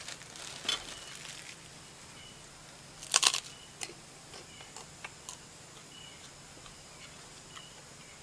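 Crisp crunching of krupuk crackers being bitten and chewed, loudest in a burst of crackles about three seconds in, with smaller clicks after. A short high insect chirp repeats steadily in the background.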